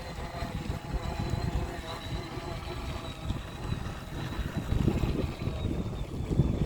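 Wind buffeting the microphone in uneven gusts, with a faint steady whine underneath whose lower tones fade out about halfway through.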